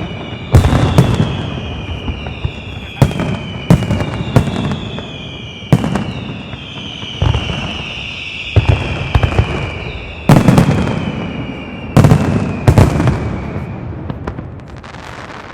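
Castillo fireworks by Pirotecnia Zaragozana: aerial shells bursting with sharp bangs every second or so, overlapped by whistling tails that fall in pitch. The bangs stop and the whistles fade out near the end.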